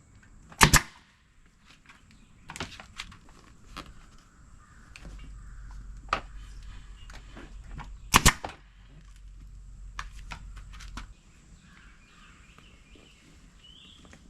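Staple gun firing staples into the vinyl seat cover: two loud sharp shots, about a second in and again about eight seconds in, with smaller clicks and handling knocks between them.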